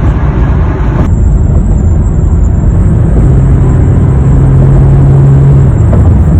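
Inside the cabin of a 2021 Honda HR-V at 60 mph with the passenger window open: loud, steady road and wind rumble. About a second in, the higher hiss drops away and a thin, steady high-pitched whistle remains over the rumble. The owner takes this whistle for a design flaw.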